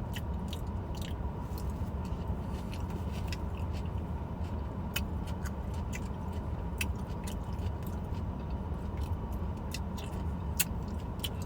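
A person chewing food, with scattered sharp mouth clicks at irregular intervals, over a steady low rumble.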